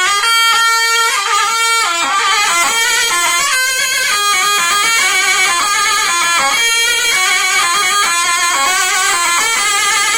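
Turkish folk halay music: a loud, reedy zurna plays a fast, ornamented dance melody.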